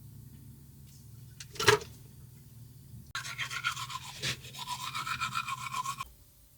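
A single sharp knock, then rapid, rhythmic scrubbing strokes that last about three seconds and stop abruptly.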